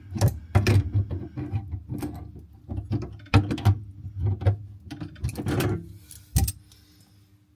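Irregular clicks and knocks of plumbing hand tools working on pipework, with a low rumble underneath. The knocking dies down after about six seconds, and a faint steady hum comes in.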